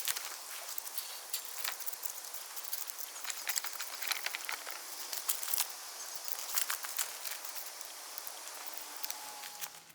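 Wood fire crackling in a fire-grill pit: irregular sharp pops and snaps over a soft hiss.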